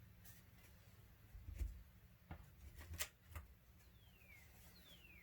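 Quiet room with a few soft clicks and taps of cards being handled, and two falling whistled bird calls near the end.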